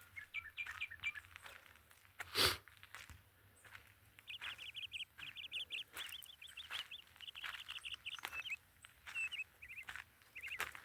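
Small birds chirping in quick trilled runs, thickest in the middle of the stretch, over light footsteps on dry ground. A single loud thump comes about two and a half seconds in.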